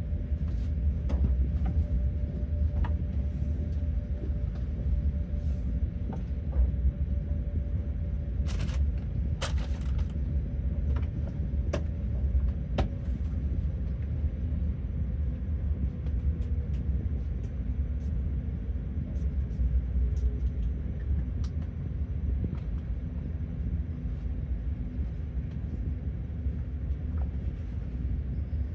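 Omnéo Premium electric train running, heard from on board: a steady low rumble of wheels on rails with a constant hum and scattered sharp clicks. A faint whine slowly falls in pitch around the middle.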